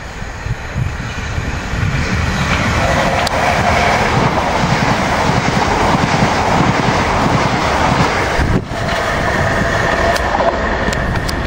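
Electric passenger train running through the platform at speed: a loud, steady rush of wheel and air noise, broken briefly about three-quarters through. A Class 395 high-speed unit runs in toward the platform near the end.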